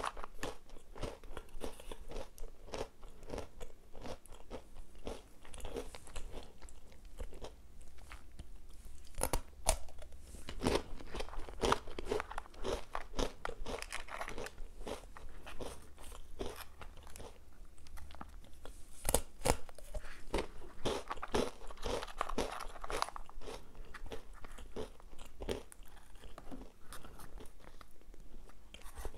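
Close-up chewing and crunching of crisp Nutella & Go breadsticks coated in hazelnut spread, with many small crackling snaps.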